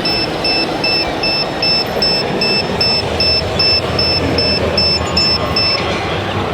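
Electronic reversing beeper on a radio-controlled model truck or construction machine, sounding a steady run of short beeps about two and a half a second that stops near the end.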